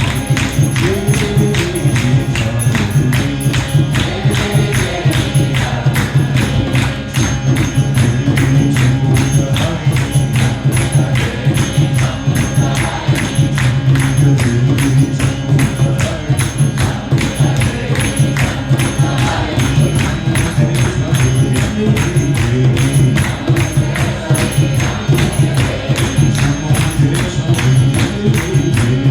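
Kirtan music: a voice chanting a devotional melody over a steady low drone, with a fast, even jingling of hand percussion keeping the beat.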